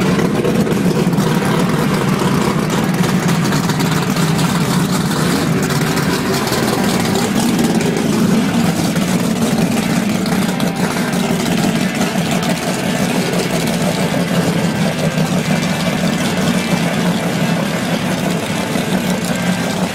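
Drag racing cars' big engines running at a loud, steady idle, a continuous low rumble with no hard revving.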